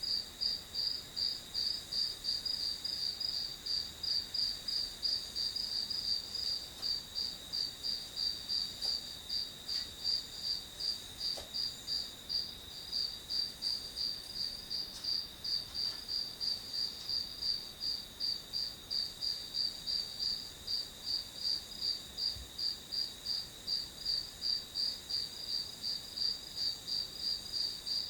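Crickets chirping in a steady, even rhythm of about three high chirps a second, over a continuous high insect trill.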